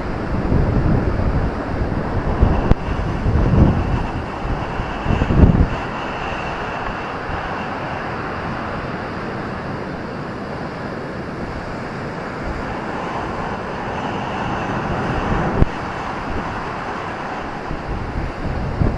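Ocean surf as a steady wash, with wind buffeting the microphone in low rumbling gusts during the first few seconds. The surf swells a little near the end.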